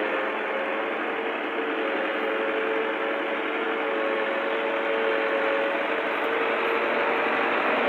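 Tractor engine running steadily, with a constant drone and a faint steady whine, getting slightly louder over the few seconds.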